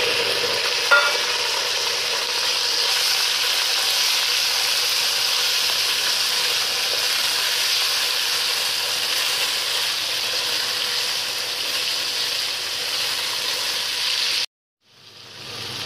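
Raw chicken pieces sizzling hard in hot oil with browned garlic in a non-stick wok, a steady frying hiss. There is a sharp knock about a second in. The sizzle cuts out abruptly for a moment near the end.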